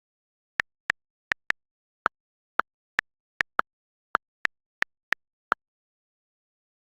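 A series of fourteen short, sharp clicks at an uneven pace, stopping about five and a half seconds in, with dead silence between them.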